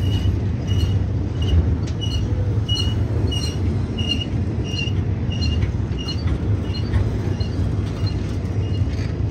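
Cars of a long welded rail freight train rolling slowly past with a steady low rumble. A short high ding repeats evenly, about one and a half times a second, and stops near the end.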